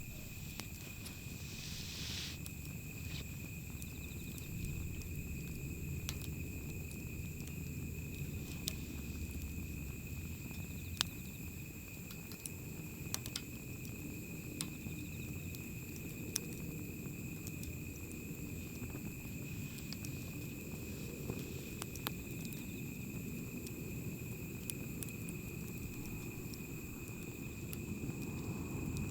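Wood campfire burning: scattered sharp crackles and pops every second or two over a low steady rumble.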